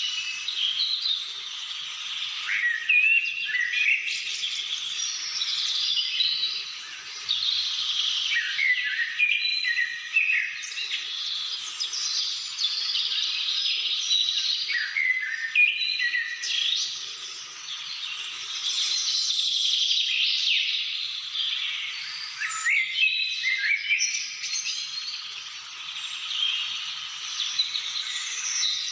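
Many birds singing and calling at once, a dense chorus of overlapping chirps and whistles.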